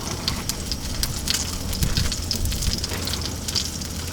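Salmon frying in a pan on a propane camp stove, a steady sizzle with scattered small crackles, over a low steady rumble.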